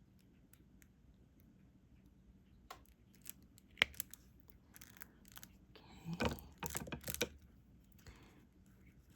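Diamond painting work: light clicks and taps of a drill pen and small plastic drills, with one sharper click about four seconds in and a cluster of rattling taps around six to seven seconds in.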